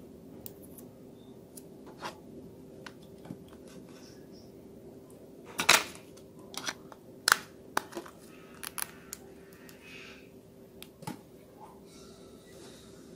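Small parts of a Nokia 105 mobile phone being handled and fitted by hand: scattered light clicks and taps, with two louder knocks about six and seven seconds in, over a steady low hum.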